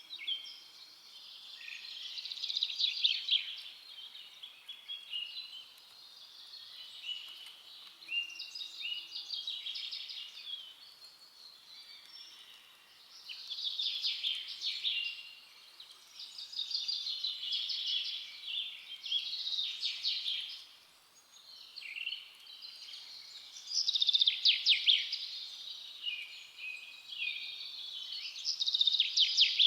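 Forest songbirds singing: high-pitched song phrases with quick trills, one coming every few seconds and swelling and fading in loudness.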